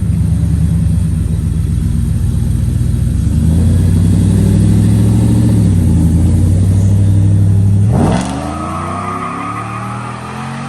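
Ford F-150 pickup's engine rumbling loudly at low revs for several seconds, then about eight seconds in revving hard as it accelerates away, its pitch climbing while the sound fades.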